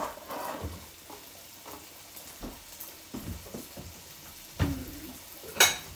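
Diced pancetta sizzling quietly as it crisps in a frying pan, with a dull knock about four and a half seconds in and a sharp click just before the end.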